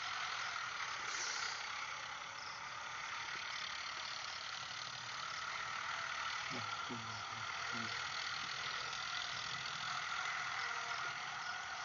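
Tractor running steadily, a constant mechanical noise with no sudden events, with faint voices in the middle.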